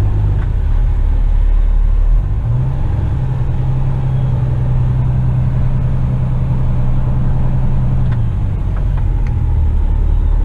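Western Star tipper truck's diesel engine running, heard from the cab. The engine note shifts about two seconds in and again near eight seconds as the engine speed changes.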